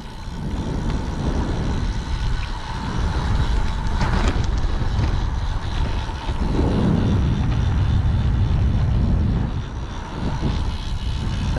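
Wind buffeting the camera microphone on a moving bicycle: a loud, uneven low rumble that rises and falls with the airflow.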